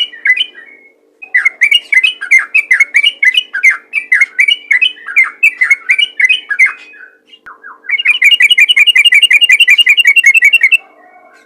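Yellow-vented bulbul (trucukan) singing loud, fast chattering phrases. After a short pause it breaks into a rapid even trill of about seven notes a second, which stops abruptly near the end.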